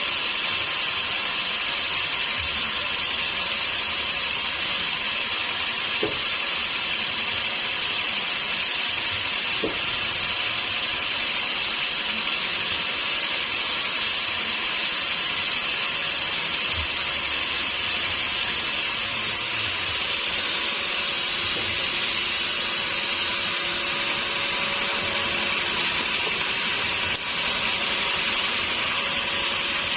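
Sawmill machinery running steadily, giving a constant hissing noise with no pauses.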